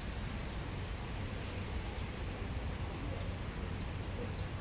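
City park ambience: a steady low hum of distant traffic, with faint short bird chirps now and then.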